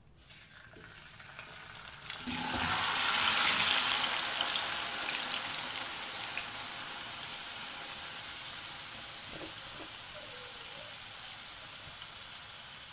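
Yogurt-marinated chicken tipped into hot oil in a nonstick wok, bursting into a loud sizzle about two seconds in with a soft thud as it lands. The frying sizzle then settles and slowly grows quieter.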